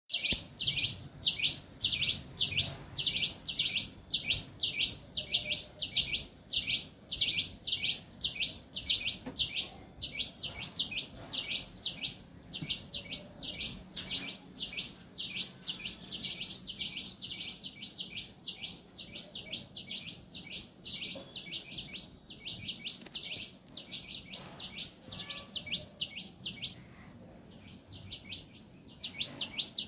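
A bird chirping over and over in a steady rhythm, about three or four short high chirps a second, with a brief pause near the end.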